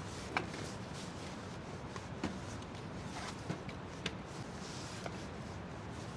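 Five or six light knocks and clicks, scattered over a few seconds, over a steady low hum.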